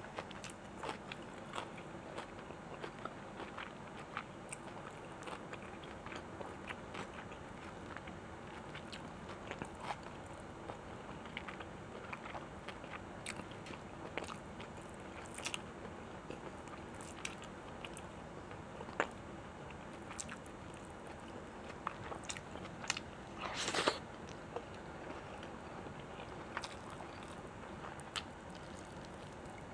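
Close-miked chewing and biting of food: many small wet clicks and crunches over a steady hiss, with one louder, longer crunch about three-quarters of the way through.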